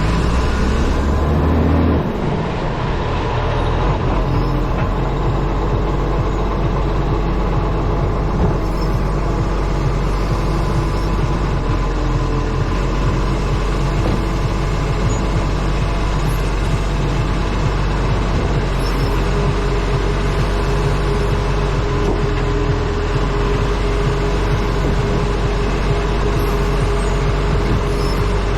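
Acco garbage truck driving, its diesel engine running under heavy wind noise buffeting a camera mounted on the front of the truck. The engine note changes about two seconds in.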